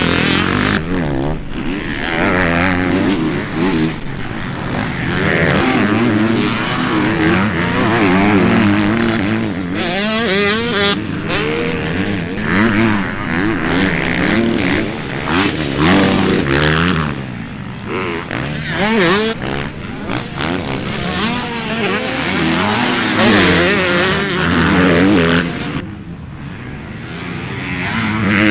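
KTM 450 four-stroke motocross bike engine with an FMF exhaust, revved hard and backed off over and over as it is ridden around a rough track, its pitch climbing and falling with each burst of throttle and gear change.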